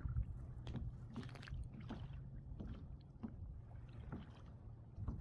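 Small waves lapping against a kayak hull, with irregular faint knocks and splashes over a low steady rumble.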